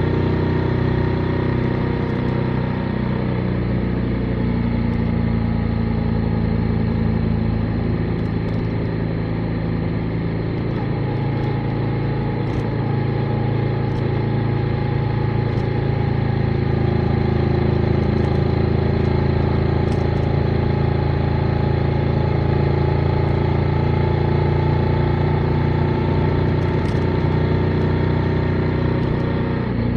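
Motorcycle engine running under way, its pitch shifting gently with the throttle, easing off a few seconds in and picking up again about halfway through, over steady wind and road noise.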